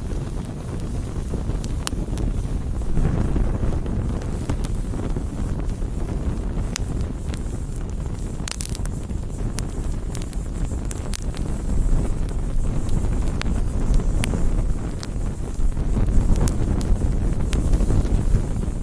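Wood campfire burning: a steady low rumble with scattered sharp crackles and pops from the burning wood.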